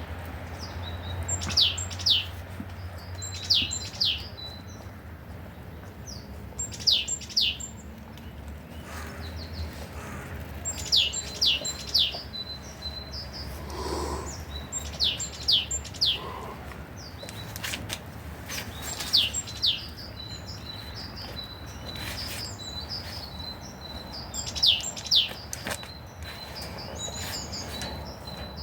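Songbirds calling: sharp, high notes that drop steeply in pitch, in quick groups of two or three repeated every few seconds, with a softer high twittering joining in over the last third. A steady low rumble runs underneath.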